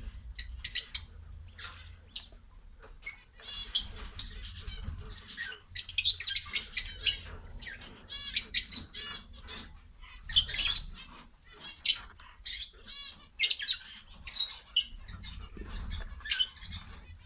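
Small birds chirping in rapid clusters of sharp, high peeps that come and go every second or two.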